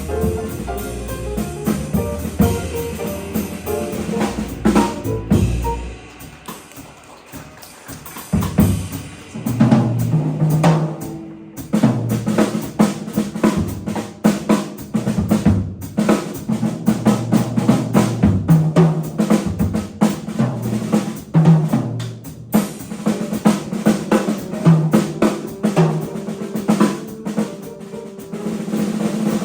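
Jazz combo drummer playing a solo on the drum kit: busy snare rolls, bass drum and tom strokes, with the band's pitched sound underneath at the start.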